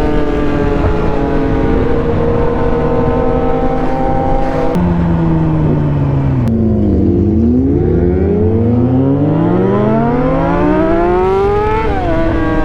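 Yamaha R6 inline-four sport bike engine, heard from the rider's seat. It eases off for a few seconds and drops sharply once about five seconds in, then revs up steadily through the gear in a long rising whine before a quick drop near the end, an upshift.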